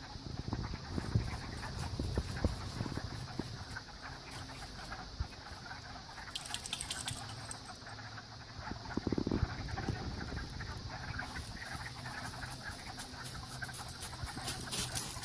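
Frog chorus from a pond, a steady high-pitched wall of calls, with scattered rustles and knocks close to the microphone.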